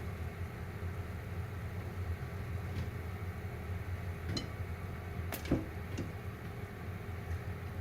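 Microwave oven running with a steady hum while bagged microwave popcorn pops only now and then, a few single pops, the loudest about halfway through.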